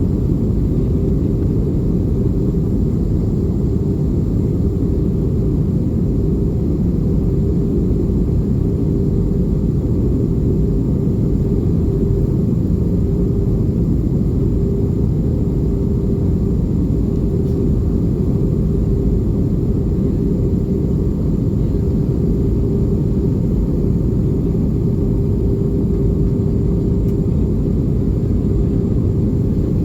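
Steady cabin noise inside an Airbus A320 in flight: a constant low rumble of jet engines and airflow, with a faint steady hum running through it.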